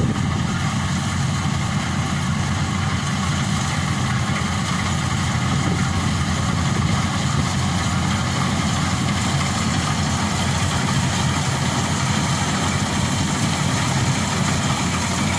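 Maxxi Bimo Xtreme rice combine harvester's engine running steadily and evenly.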